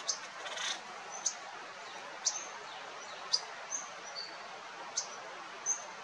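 Bird chirps: short, sharp, high chip notes, each a quick downward sweep, coming singly about once a second over a faint steady hiss. A brief rustle comes at the start.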